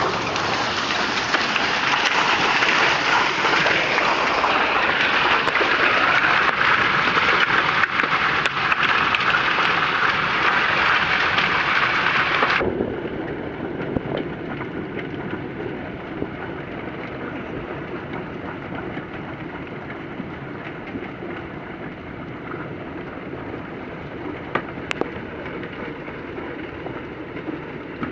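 Hailstorm: hail and rain drumming hard on surfaces in a dense, crackling patter. About halfway through, the sound drops suddenly to a quieter, duller downpour.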